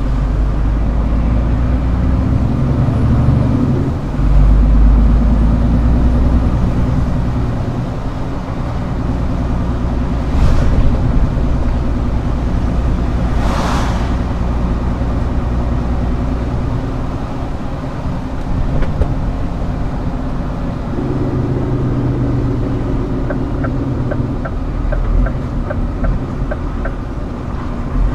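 Scania R410 truck's diesel engine running, its note shifting a few times, with two short air hisses in the middle. A run of light, evenly spaced ticks comes near the end.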